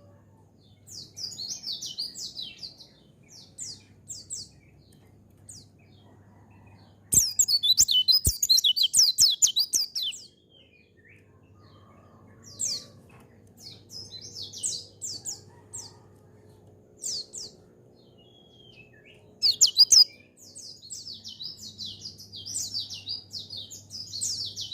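Pleci (white-eye) singing a rapid, high-pitched chattering song in quick run-on phrases. The loudest part is a long burst about seven seconds in, with another short loud burst near twenty seconds.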